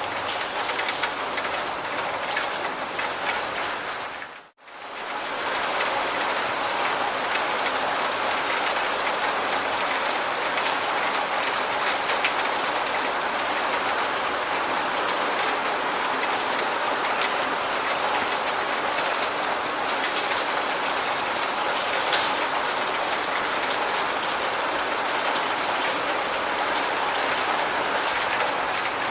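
Steady heavy rain: a dense, even hiss of rainfall with fine drop ticks. About four and a half seconds in it fades out almost to silence for a moment and comes straight back.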